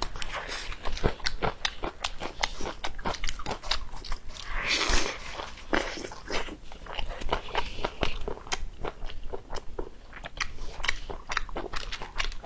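Close-miked eating: wet chewing and lip-smacking with many quick, irregular mouth clicks as braised octopus is chewed, and a longer hissy mouth sound about four and a half seconds in.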